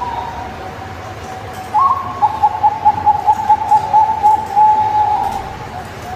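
Zebra dove (perkutut) cooing. A rising note comes about two seconds in, then a quick run of staccato coos, about five a second, lasting some three seconds.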